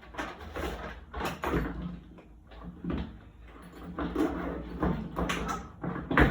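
A series of irregular knocks and rustles, with a loud knock near the end.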